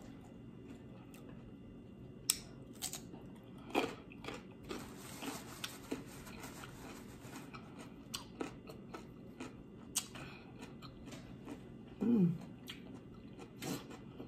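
A person chewing food close to the microphone, with scattered wet lip smacks and clicks, and a short hum about twelve seconds in.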